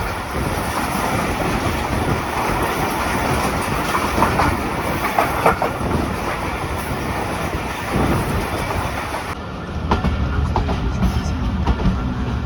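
Passenger train running along the line, with a steady rumble and wheels clattering over the rail joints. About nine seconds in, the high hiss suddenly drops away and the sound turns duller.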